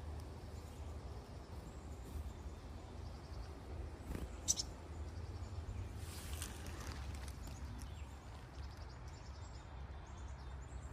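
Outdoor ambience: a steady low rumble, like wind on the microphone, with faint high bird chirps, and one short sharp high sound about four and a half seconds in.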